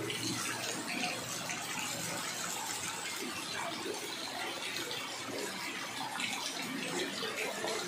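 Heavy rain falling onto a flooded street, a steady hiss of drops splashing into the standing and running water.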